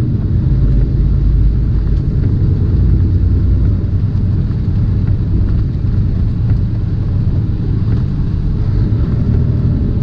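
Tractor-trailer's diesel engine and road noise heard from inside the cab while driving: a steady low drone.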